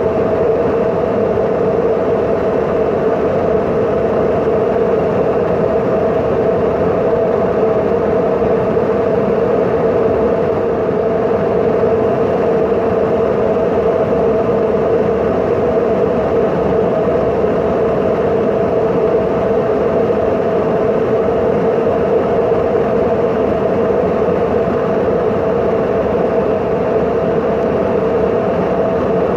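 Steady aircraft engine drone: an even rush of noise with two held humming tones, unchanging throughout.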